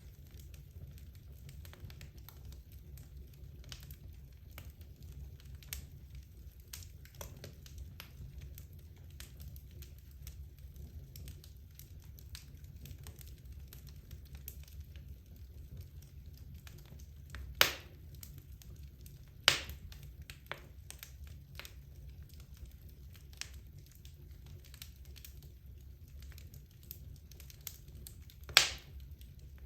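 Wood logs burning in a fireplace: a steady low rumble of the flames with continual small crackles, and three sharp, louder pops of the wood, the last near the end.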